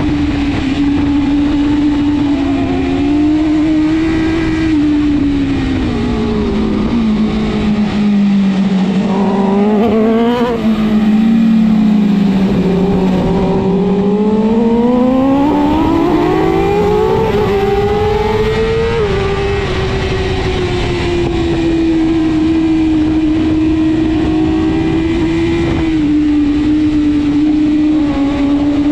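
BMW S1000RR superbike's inline-four engine running at high revs under race load, heard from on board. The revs sink slowly through the middle, about a quarter of the way in, then climb back and hold high near the end.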